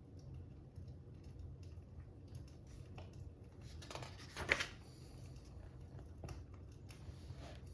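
Faint fire crackling over a low steady rumble: scattered small ticks, and one louder crackle about four and a half seconds in.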